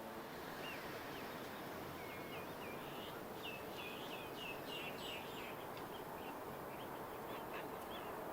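A wild bird calling: a run of short, high chirps that grows busier in the middle and thins out near the end, over a steady background hiss of outdoor noise.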